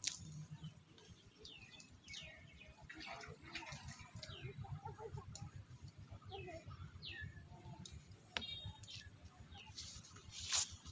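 Small birds chirping, each call a short falling note, a second or two apart, with a quick run of rapid ticking notes just past the middle. Near the end comes a brief loud rush of noise, the loudest moment.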